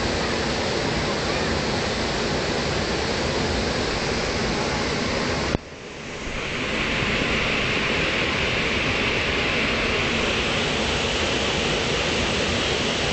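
Waterfall pouring: a loud, steady wash of falling-water noise. About five and a half seconds in it cuts out abruptly and swells back over a second or so, then carries on brighter and hissier.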